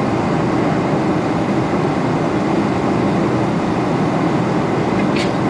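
Steady roar of engines and rushing air heard inside the cabin of a Boeing 747-400 airliner, with one brief faint tick near the end.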